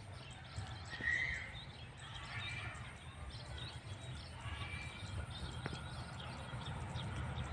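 Faint bird chirps, the clearest about a second in, over a low steady rumble.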